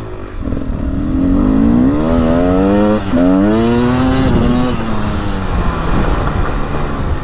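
Beta 300 Race Edition's single-cylinder two-stroke engine pulling hard on a throttle roll-on, its pitch climbing, with a sudden drop about three seconds in where it shifts up, then climbing again before the rider eases off around five seconds in.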